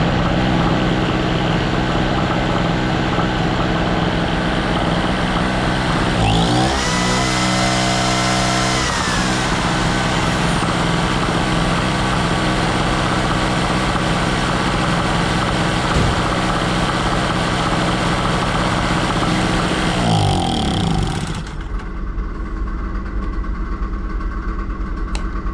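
Small 1000-watt two-stroke generator engine running steadily on its own, smoking as it burns through its 50:1 fuel mix. About six seconds in its pitch sweeps up, and about twenty seconds in a falling sweep brings it down, after which it runs a little quieter.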